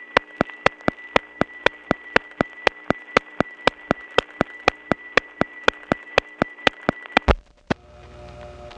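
Telephone line recording of a Woodland Hills central office: sharp ticks about four a second over a hum and a steady high whine, the office's signature noise that appears wherever there is unbalanced power. The ticking stops with a loud click a little past seven seconds, and a steadier hum with several tones follows.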